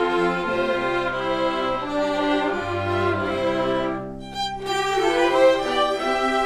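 A string ensemble of violins and cellos playing, with sustained bowed notes over a low line. The sound dips briefly about four seconds in, then the playing comes back in.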